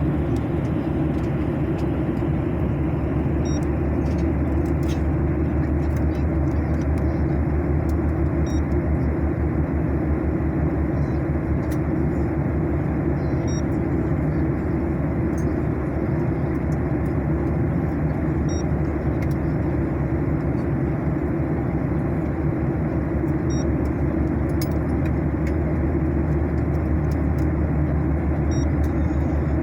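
Steady roar of airliner cabin noise in flight: engine and airflow noise, heaviest in the low end, unchanging throughout. A faint short high beep repeats about every five seconds.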